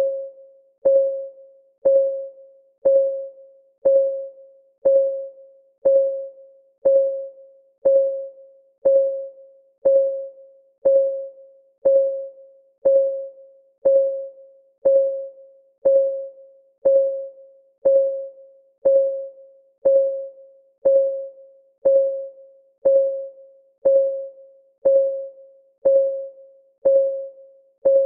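Clock ticking steadily once a second. Each tick is a short click with a brief pitched ring that dies away quickly.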